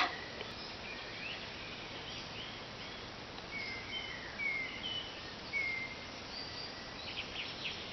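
Forest ambience: a steady background hiss with a bird giving several short whistled calls, some sliding down in pitch, around the middle.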